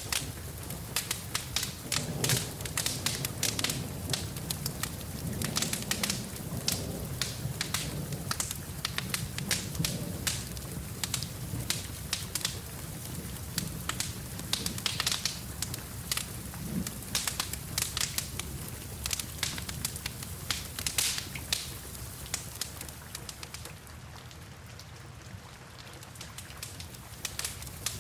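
Wood fire in a fireplace crackling and popping, over a steady hiss of rain. The pops thin out for a few seconds near the end.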